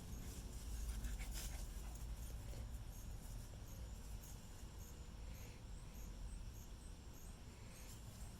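Crickets chirping in an even rhythm, faint under a low rumble, with a few soft clicks about a second in.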